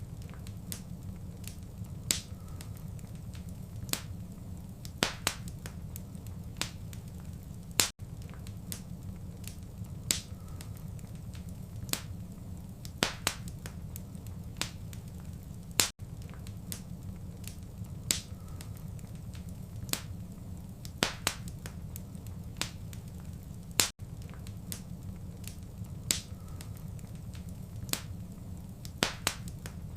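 Wood fire crackling and popping over a steady low rumble of flame, with sharp irregular pops every second or so. The same eight-second stretch of crackles repeats as a loop, with a brief dropout at each join.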